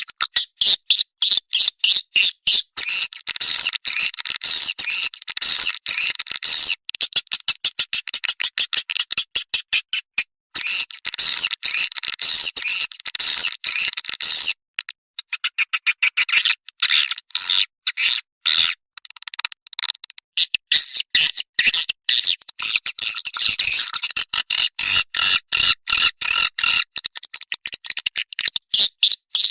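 Swiftlet lure call: recorded swiftlet twittering played to draw the birds, in fast runs of high-pitched chirps broken by short pauses.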